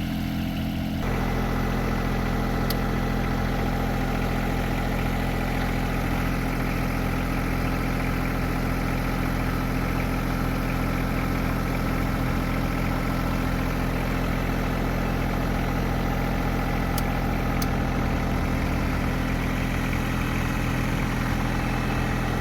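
John Deere 2305 compact tractor's three-cylinder diesel engine running steadily. About a second in it picks up and runs a little louder and fuller, then holds steady.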